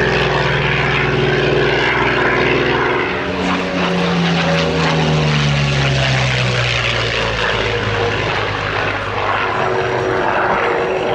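Grumman F6F Hellcat's Pratt & Whitney radial engine running loud as the fighter flies past, its pitch dropping as it goes by about four to seven seconds in.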